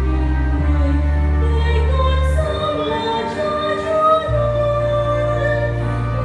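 Children's choir singing a hymn over a keyboard accompaniment whose long held bass notes change about every two seconds.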